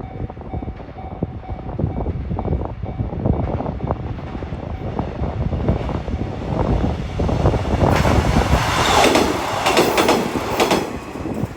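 521 series electric train passing a level crossing. Its wheels clack over the rail joints, building to a loud rushing peak about eight seconds in, then dropping away at the end.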